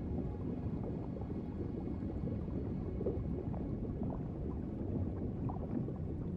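Underwater ambience: a steady, muffled low rush of water with small bubbling blips scattered through it.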